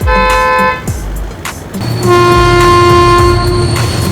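Cartoon train horn sound effect: a short toot ending in the first second, then one long held toot from about two seconds in, over a low steady rumble.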